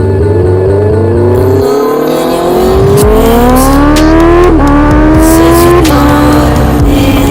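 Honda CBR650R inline-four engine accelerating hard through the gears: the revs climb steadily, drop sharply at an upshift about four and a half seconds in, climb again, and drop at a second upshift about six seconds in before holding nearly steady.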